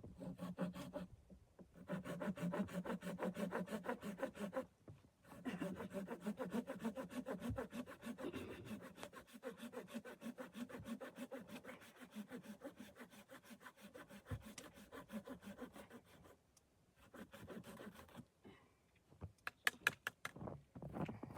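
Hand saw cutting through wood in quick, even back-and-forth strokes. It pauses briefly twice, stops for a longer break later, and a few knocks follow near the end.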